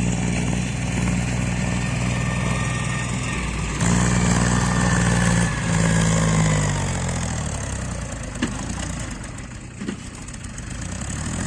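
Tractor diesel engine running under load, getting louder about four seconds in, then its revs rising and falling before it eases off toward the end.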